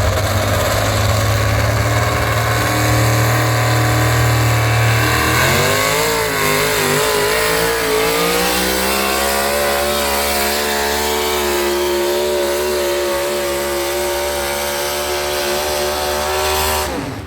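Pulling tractor's engine running low and steady, then revving up about five seconds in and holding at high, steady revs through a pull, dropping away near the end.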